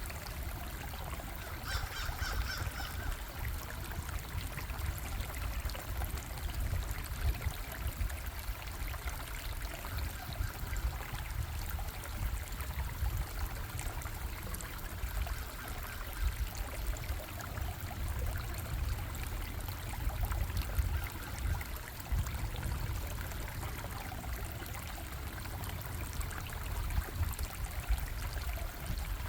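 Stream of running water, steady and unbroken, with a deep rumble beneath. About two seconds in, a short high call with several tones sounds over it.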